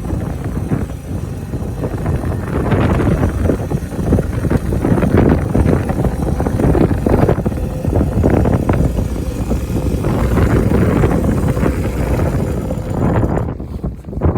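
Strong wind buffeting the microphone in gusts over the Honda Benly CS90's small four-stroke single running as it rides. The noise eases briefly near the end.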